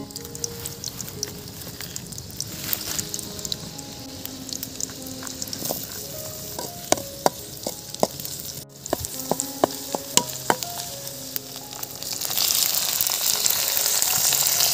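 Food frying in hot oil in a kadhai over a wood fire: a steady sizzle with spitting ticks, and a run of metal clinks from stirring about halfway through. The sizzle grows louder and fuller about twelve seconds in.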